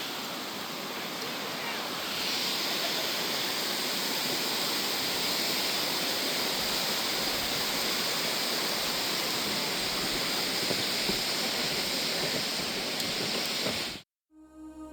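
Steady rush of water, like a waterfall or fast stream, growing louder about two seconds in and cutting off abruptly shortly before the end.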